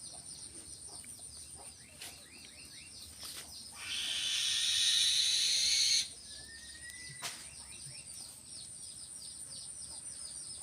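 Steady, fast, high chirping of insects, broken about four seconds in by a two-second burst of hissing noise, the loudest sound here, and by a single sharp click near seven seconds.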